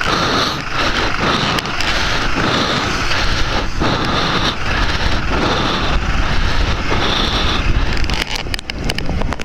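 Motorcycle riding along the road: its engine runs under steady wind noise buffeting the microphone.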